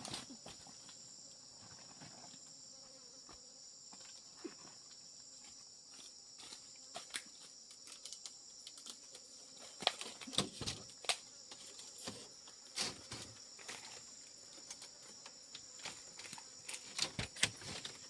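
Steady high-pitched insect chorus, with scattered sharp clicks and knocks that come more often from about ten seconds in.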